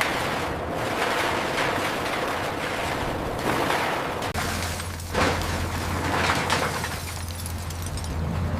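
Heavy scrap-processing machinery crushing and tearing car bodies: a dense, irregular crashing and grinding of metal that comes in surges, with a low machine hum joining about four seconds in.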